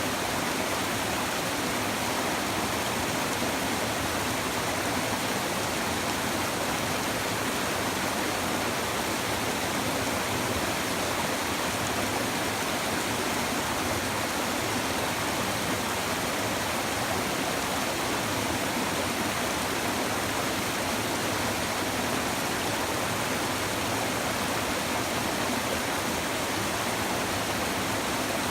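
A river stream babbling and rushing steadily over rocks.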